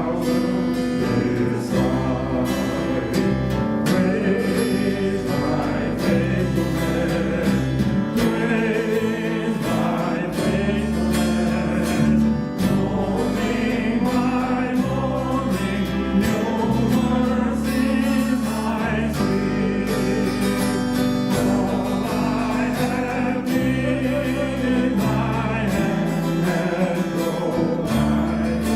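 Worship song sung by a group of voices over instrumental accompaniment, with sustained bass notes changing every couple of seconds.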